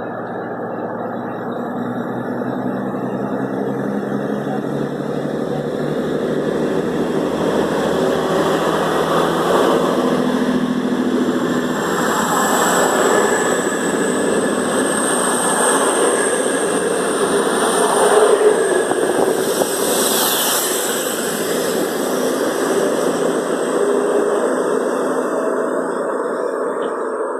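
Class 221 Super Voyager diesel-electric multiple unit pulling out of the station, its underfloor diesel engines working under load as the carriages pass. The sound builds gradually, loudest past the middle, with a high thin whine above the engine noise.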